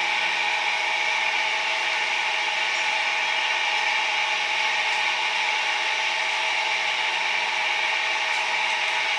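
Steady whir of a small electric fan motor: several steady tones over an even hiss, unchanging throughout.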